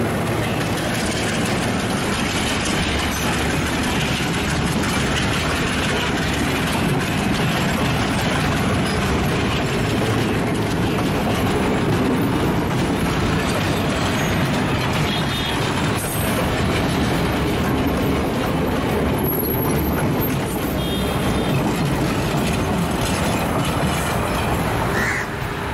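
Diesel-hauled passenger train passing close by: the locomotive and then a long line of coaches rolling past, with a steady noise of wheels on the rails that eases slightly near the end as the last coach moves away.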